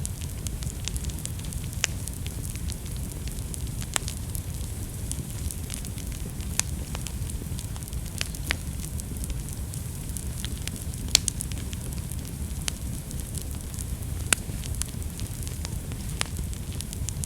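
Wood fire burning in a fireplace: a steady low rumble with irregular crackles and sharp pops, the loudest pop about eleven seconds in.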